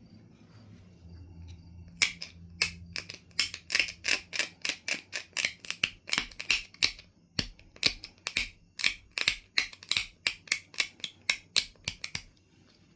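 Knife River flint edge being abraded with a stone: quick, even scraping strokes, about three or four a second, starting about two seconds in and stopping shortly before the end, the way a knapper grinds the edge to strengthen platforms before flaking.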